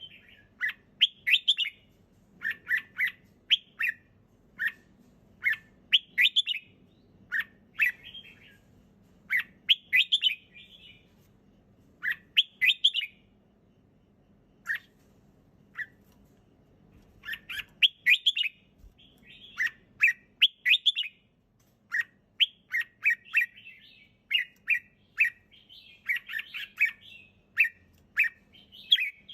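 Red-whiskered bulbul singing: short, clear phrases of a few quick notes, repeated every second or two, with a brief lull about halfway through.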